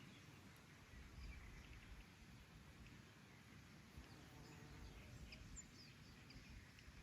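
Near silence with faint, scattered bird chirps, a little busier from about four to six seconds in.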